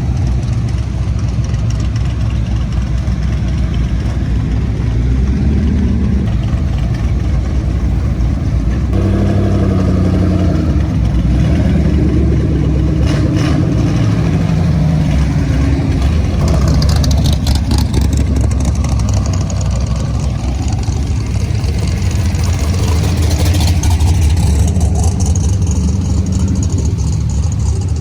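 Car engines running at low speed in a slow line of cars, heard from inside one of them; an engine note rises and falls between about nine and sixteen seconds in.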